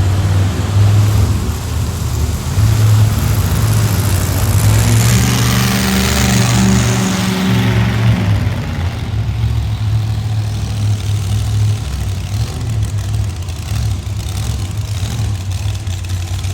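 Monster truck engine running loud, revving harder about four seconds in and easing back after about eight seconds.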